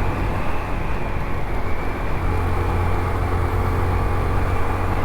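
Honda CT125's small single-cylinder engine running steadily under way, with steady riding noise.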